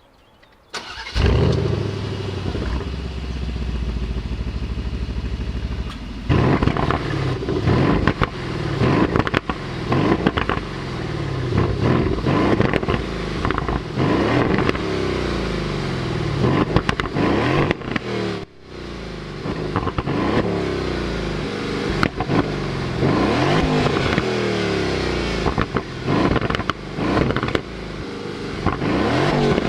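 Aston Martin Vantage's twin-turbo V8 fires up about a second in and idles steadily for several seconds. It is then revved again and again, the pitch rising and falling with each throttle blip.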